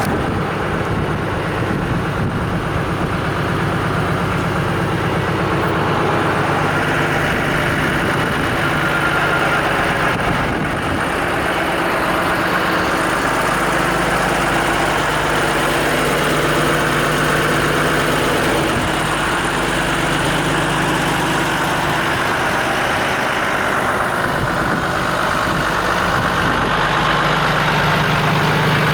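Diesel engine of a Renault 110-170 4x4 truck running steadily, most likely idling, its note fading a little in the middle and coming back strongly near the end.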